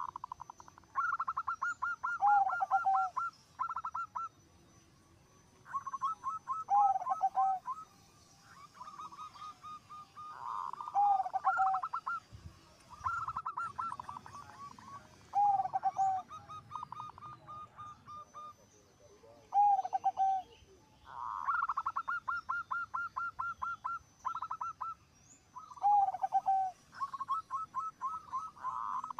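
Zebra dove cooing: about seven phrases, each a quick run of clipped notes that ends in a lower, drawn-out coo, repeated every few seconds.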